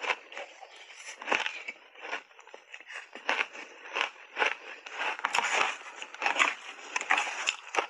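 Close-up crunching of shaved ice coated in matcha powder being chewed, an irregular run of sharp crunches and crackles, busiest in the second half.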